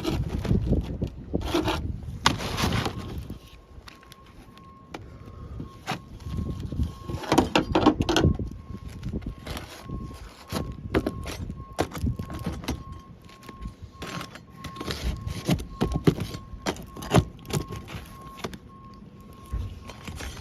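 Hand work on an asphalt-shingle roof: scattered clicks and knocks, with a few longer scraping bursts. A faint steady high tone runs under it from about three seconds in.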